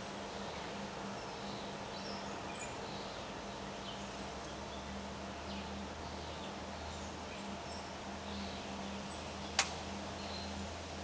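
Steady outdoor wind noise with scattered short bird chirps, and a single sharp click near the end.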